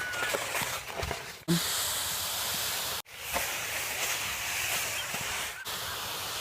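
Steady hissing outdoor noise that cuts out abruptly about a second and a half, three seconds and five and a half seconds in. It carries a short low thump about a second and a half in and a few faint high whistles.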